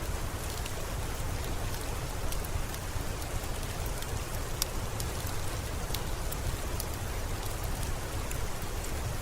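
Steady rain ambience mixed with a crackling fireplace: an even hiss with a low rumble beneath, and scattered sharp pops and ticks.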